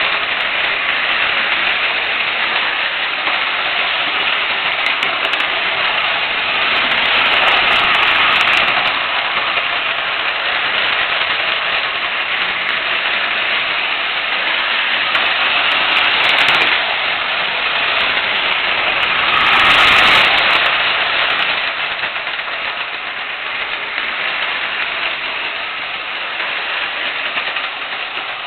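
Lionel 2018 O gauge toy steam locomotive running steadily with its electric motor and wheels on three-rail track, pulling passenger cars; the running noise swells louder several times.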